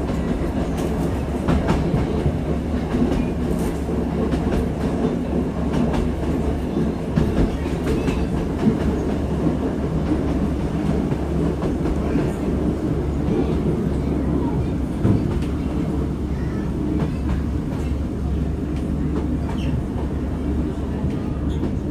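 Diesel passenger train running along the line, heard from inside the carriage: a steady rumble with occasional clicks of the wheels over the rails.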